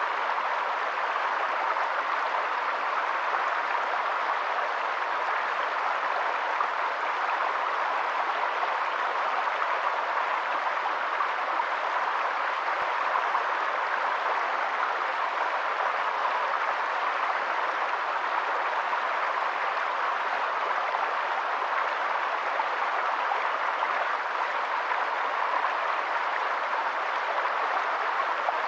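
Steady water noise, an even unbroken wash with no rise or fall.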